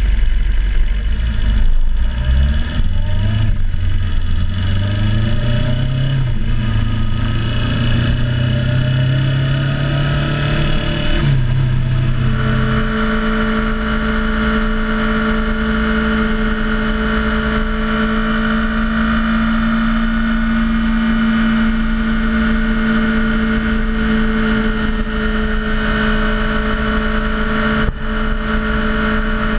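Motorcycle engine on the move, picking up speed through the gears: its pitch climbs and drops back several times over about twelve seconds, then settles at one steady pitch at cruising speed.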